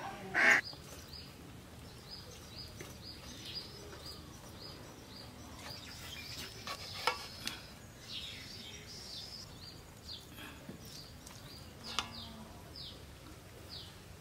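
A small bird calls over and over with short, high, falling chirps, about two a second. A metal ladle clinks against a metal wok twice, once midway and more sharply near the end. One loud quack sounds right at the start.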